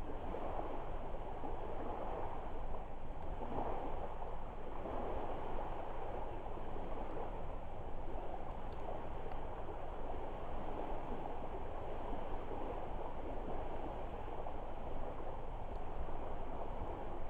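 Steady rushing outdoor noise at a lakeside driftwood campfire, with a few faint crackles.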